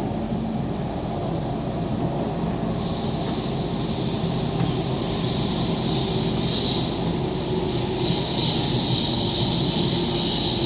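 MTR K-Train electric multiple unit running along the track, a steady low rumble. A high hiss joins about three seconds in and grows stronger near the end as the noise slowly builds.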